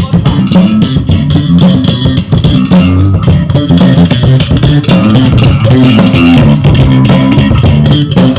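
Loud rock music played live through stage amplifiers: an electric bass line of stepping low notes with guitar over sharp, regular beats. The amplifiers are Gallien-Krueger and Laney amps being tested.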